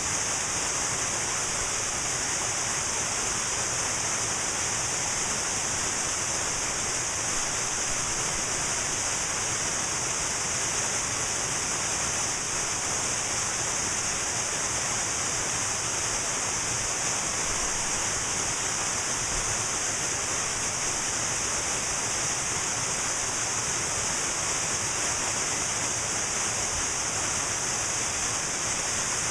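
Cascading waterfall: a steady, even rush of falling water with a bright hiss.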